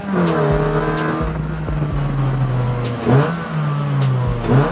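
Honda Brio's swapped-in 1.5-litre four-cylinder i-VTEC engine from a 2021 Honda City, under way and heard from inside the stripped cabin. Its note drops in pitch at the start, runs fairly steady, and dips and recovers twice: once about three seconds in and again near the end.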